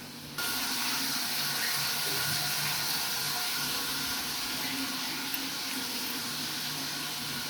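A steady hiss that starts abruptly about half a second in and holds even.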